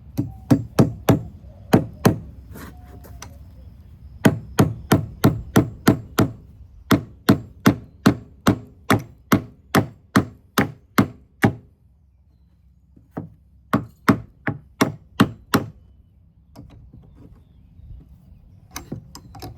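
Hammer driving a nail into a wooden roost perch: runs of sharp blows, about three a second, broken by short pauses.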